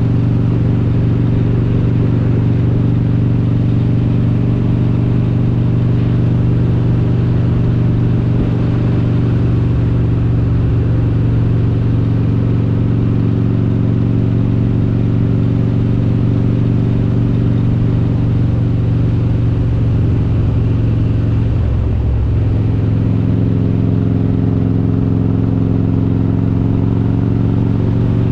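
Harley-Davidson Road King's V-twin engine, built to 95 cubic inches with an S&S kit and Super Stock cylinder heads, running steadily while riding. About three-quarters of the way through, the engine note briefly breaks and settles at a slightly different pitch.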